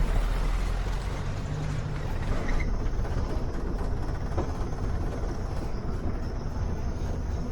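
Safari vehicle driving, a steady low engine and road rumble.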